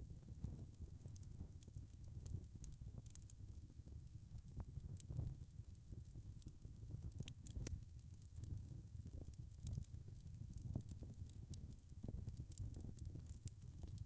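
Wood fire crackling: scattered sharp pops and ticks over a low, steady rumble of burning.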